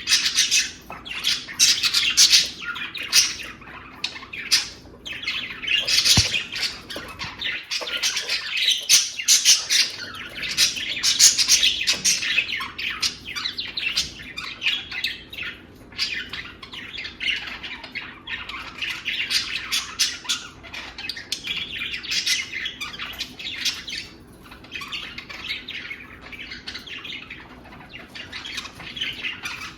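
Budgerigars chattering without a break, a dense stream of short, quick chirps, louder in the first half and softer toward the end.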